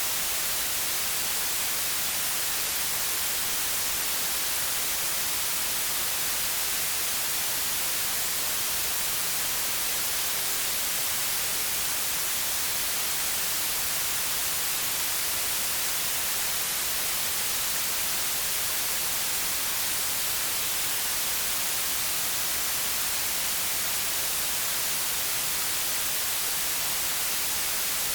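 Steady white noise: an even, unchanging hiss, strongest in the high frequencies, with no rhythm or variation.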